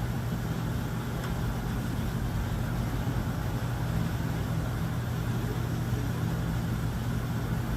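A steady low mechanical hum, even and unchanging, with a faint click about a second in.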